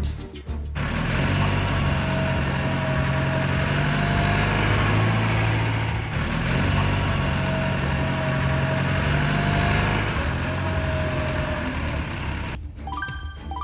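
A heavy vehicle's engine running steadily with a wavering whine over it, starting over once around the middle. Music comes back near the end.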